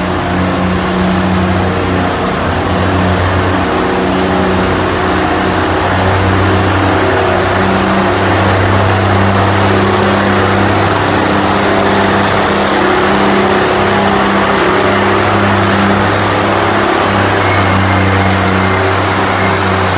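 Antique pulling tractor's engine running hard and steady under load, its note holding nearly constant with slight shifts in pitch.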